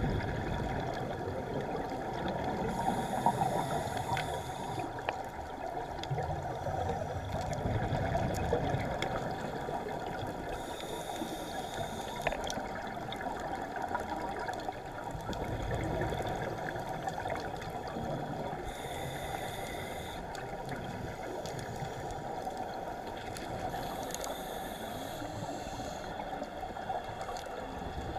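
Underwater sound of scuba diving: a steady bubbling and gurgling wash, with a high hiss that comes back about every eight seconds, four times, like a diver's breaths through a regulator.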